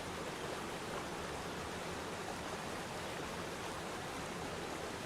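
Waterfall rushing: falling water as a steady, even noise with no breaks.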